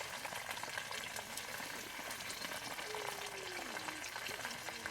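Chicken pieces deep-frying in hot oil, a steady crackling sizzle.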